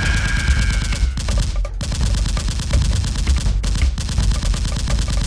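Rapid, continuous gunfire, several automatic guns firing at once, broken by a few short pauses.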